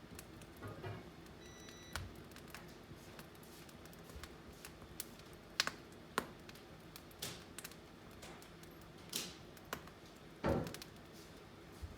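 Wood fire burning in a fireplace, crackling with irregular snaps and pops, a few of them louder.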